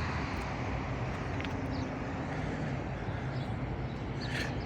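Steady outdoor traffic and vehicle engine noise, with a low engine hum that fades away about half a second in.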